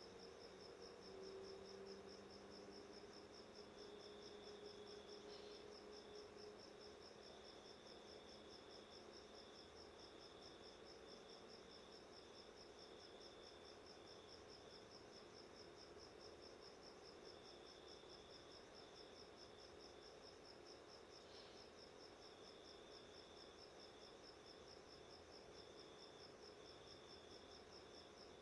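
Faint insects chirping steadily: one high, fast, evenly pulsed chirp runs on throughout, while a second, slightly lower chirp comes and goes. A faint low hum sits underneath.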